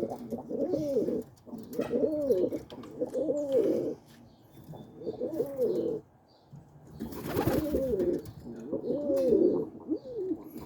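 Several roller pigeons cooing in a loft: repeated rising-and-falling coos, often overlapping one another, with a short rustling burst about seven seconds in.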